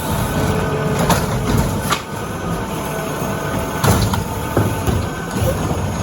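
Autocar ACX diesel garbage truck with a Bridgeport Ranger rear-loader body running as its packer mechanism works, with faint squeals and metal clunks, about four knocks in all.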